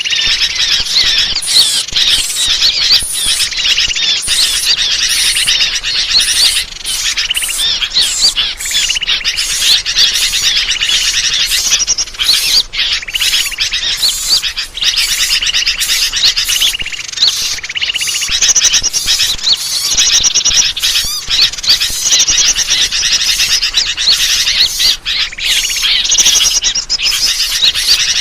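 Dense chorus of many small birds chirping, trilling and squawking over one another without a break: a bird-lure (pikat) call mix used to draw wild birds in for trapping.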